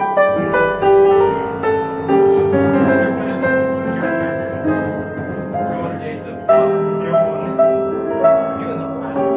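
Live jazz: piano with band, playing a slow tune with long held melody notes.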